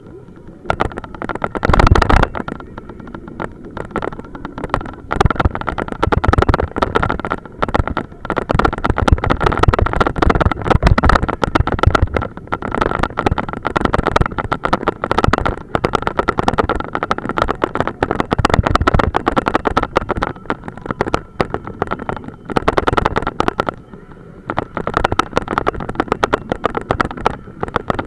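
Police motorcycle riding, its engine running under loud, irregular crackling buffeting on the bike-mounted camera's microphone, with a steady whine throughout.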